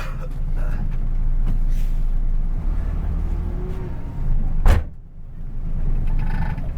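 Bus engine with a racing exhaust running with a steady low rumble. About four and a half seconds in there is a single loud sudden burst, after which the sound briefly drops away before the rumble returns.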